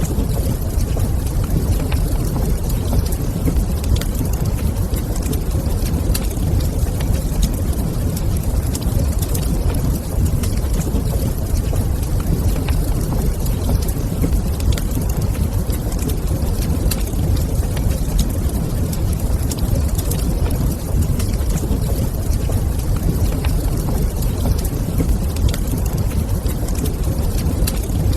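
Fireplace ambience: a steady low rumble with scattered faint crackles and pops of a wood fire.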